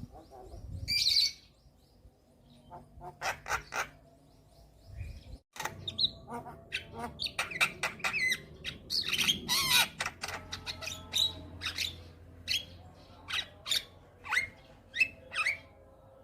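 Javan myna (jalak kebo) singing a varied, rapid run of sharp clicks, chirps, harsh squawks and short whistled slides, with a brief break about five and a half seconds in.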